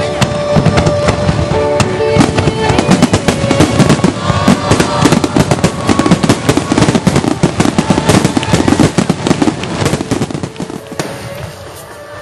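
A fireworks display going off in a rapid, dense barrage of bangs and crackles that thins out near the end, with music playing underneath.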